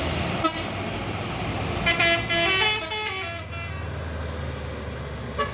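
A heavy vehicle's multi-note horn plays a short tune that steps down in pitch, about two seconds in, over the steady low running of a big diesel engine.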